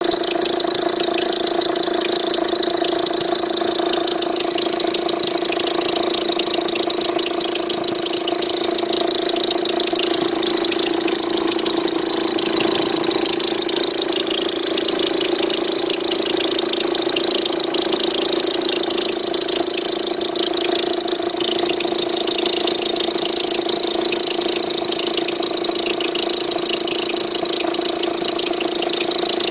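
Car engine idling steadily with a continuous whine from the alternator's overrunning (freewheel) pulley, which the owner suspects is worn out.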